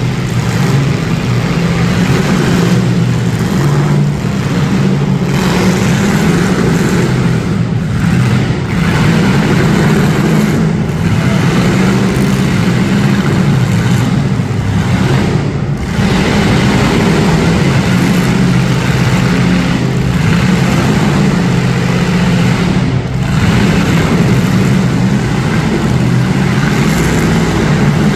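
Several street stock demolition derby cars' engines revving hard together in a loud, steady din, with a few brief dips as throttles lift.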